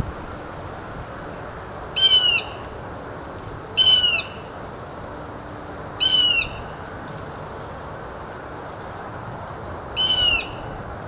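A bird calling four times, each call a short, loud, falling note, over a steady outdoor background.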